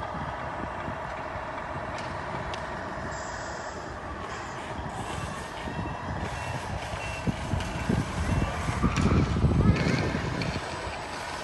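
Sound unit of a 1/14 Tamiya Scania R620 RC truck playing a simulated truck engine running, with short reversing beeps in the middle. A louder stretch of low rumble and knocks comes near the end.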